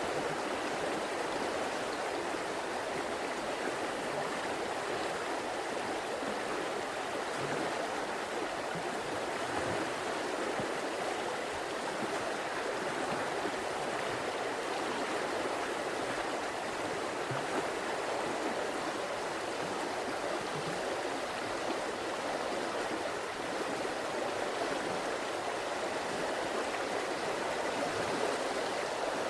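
A river flowing steadily, an even rushing of water with small gurgles.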